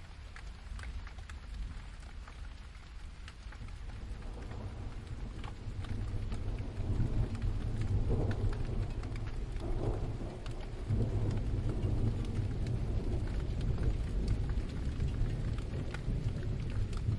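Steady rain with single drops ticking through it, and a low roll of thunder that builds from about four seconds in and rumbles on, loudest in the second half.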